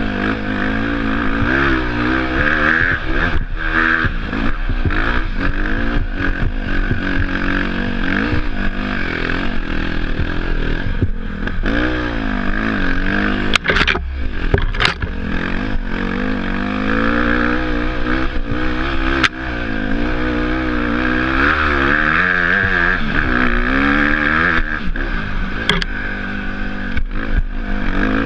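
Off-road motorbike engine running under constant throttle changes, its pitch rising and falling again and again as it revs up and drops back. A few sharp knocks cut through it, about halfway through and again near the end.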